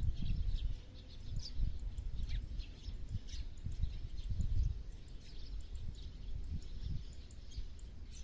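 Several small birds chirping in short, scattered calls, over a low, uneven rumble of background noise that is the loudest part of the sound.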